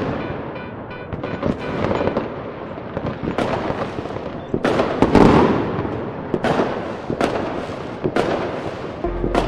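Fireworks going off: a rapid, uneven run of bangs over crackling, with the loudest and deepest boom about five seconds in. Music comes in just before the end.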